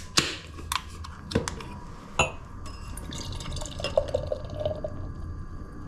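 Kitchen items being handled: a handful of sharp clinks and knocks, one ringing briefly like glass, over a steady low hum.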